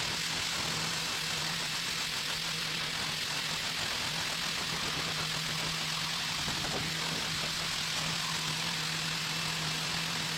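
Pressure washer running steadily: a constant motor hum under the continuous hiss of its water spray.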